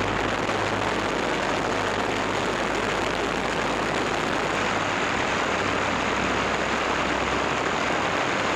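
Steady engine and airflow noise of an aircraft in flight: a dense, even rushing with a low steady hum beneath it.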